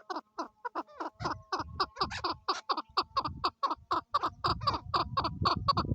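Chukar partridge calling: a fast run of short, clucking chuck notes, about five a second, with a low rumble under them in places.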